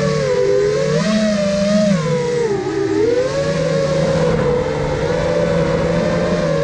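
iFlight Nazgul Evoque F5 FPV quadcopter's brushless motors and propellers whining, the pitch rising and falling with the throttle, with a rise about a second in and a dip around three seconds in.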